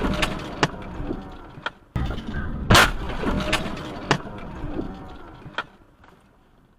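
Vehicle crash: a loud bang about three seconds in, with sharp knocks and clattering around it over a low rumble, all dying away near the end.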